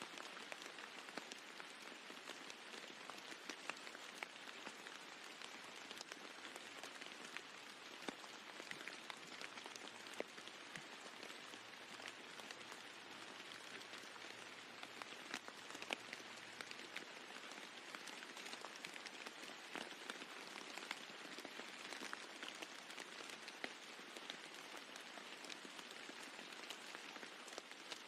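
Steady rain falling on a roof, with many individual drops ticking sharply over an even hiss.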